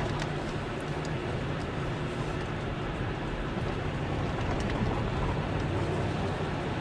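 Motor vehicle engine running steadily with a low, even drone and road noise.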